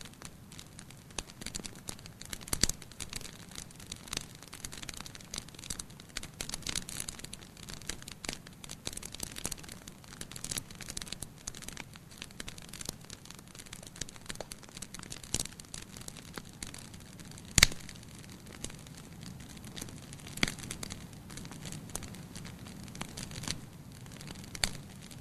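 Fire in a fireplace crackling steadily, with irregular snaps and pops; one loud pop comes about two-thirds of the way through.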